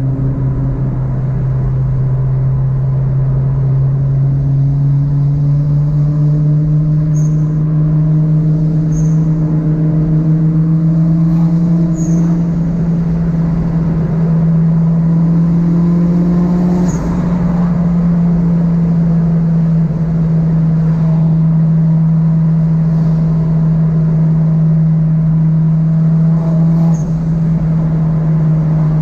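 Car engine droning at steady highway cruise, heard from inside the cabin, its note rising slowly as speed builds.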